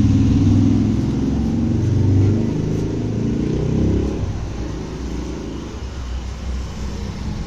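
A motor vehicle's engine running close by, its pitch shifting, loudest in the first few seconds and fading after about four seconds into a lower traffic rumble.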